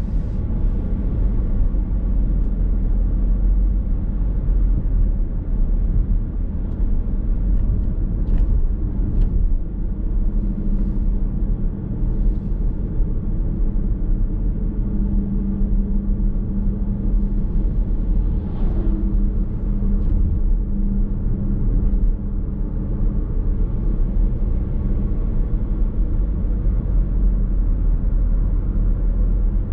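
Car driving at a steady pace, heard from inside the cabin: continuous low road and tyre rumble with a steady engine hum.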